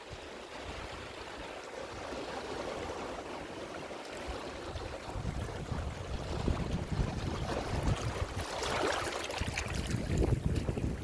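Ocean waves washing onto a shore with a low rumble; the wash swells to its loudest near the end before falling back.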